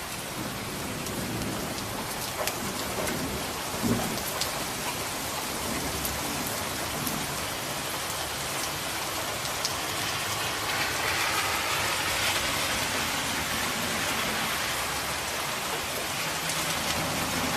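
Steady rain, with a few sharp crackles and pops from a wood fire in a fireplace. The rain grows a little louder and brighter about ten seconds in.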